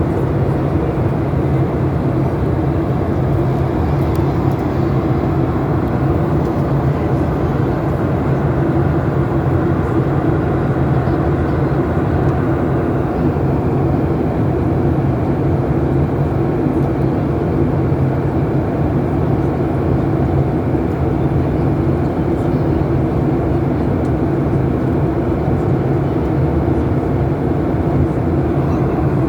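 Steady, loud cabin drone of a Boeing airliner in flight: jet engine and airflow noise, deep and unchanging.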